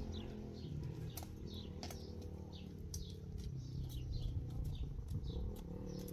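Small birds chirping: short falling chirps repeated about twice a second, with a few sharp clicks over a low rumble.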